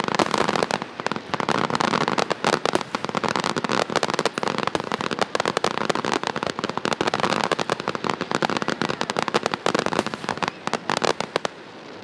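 A fireworks display: a dense barrage of crackles and bangs from bursting aerial shells, thinning out near the end.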